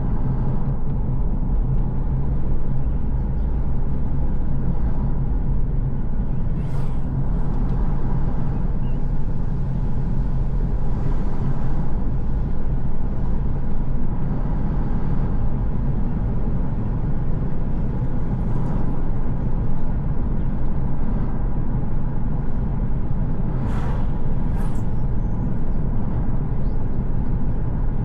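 Car driving at a steady pace: a continuous low engine and road rumble. A few brief hisses cut through it, twice close together near the end.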